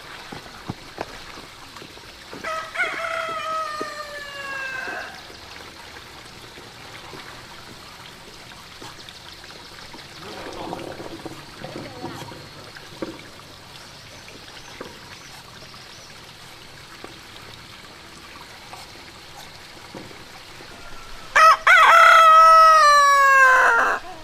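Rooster crowing twice: a fainter crow a few seconds in, then a loud, long crow near the end, each falling in pitch. Steady rain hiss underneath.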